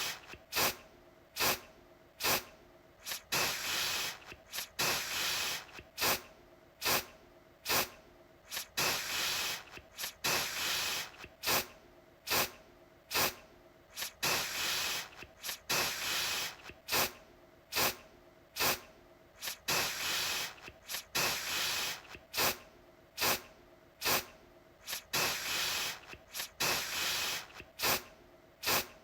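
Aerosol deodorant can sprayed in many short, quick bursts, about one to two a second, with a hiss between them.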